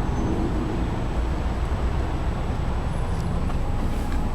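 Steady low vehicle rumble with no distinct knocks or changes.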